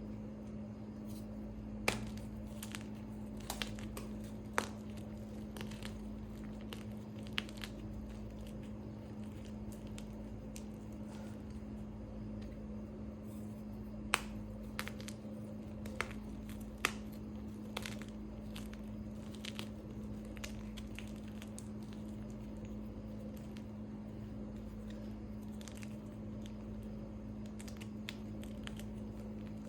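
Pressed gym chalk reforms and chunks being crushed, giving gritty crumbling with scattered sharp crunches, most of them in the first two-thirds, over a steady low hum.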